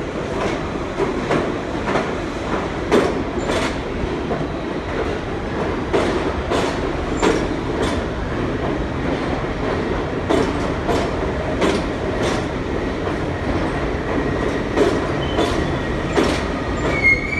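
New York City subway train running through the station: a steady rumble with wheels clacking over rail joints, and a short high wheel squeal near the end.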